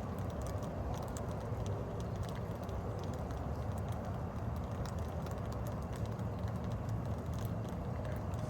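Steady rain with a low background rush and many small, irregular drop ticks against nearby hard surfaces.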